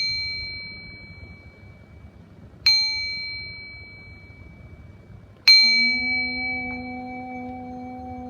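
A small high-pitched bell or chime struck three times, about 2.7 seconds apart, each strike ringing out clearly for a couple of seconds. With the third strike a deep singing-bowl tone begins and hums on steadily under it.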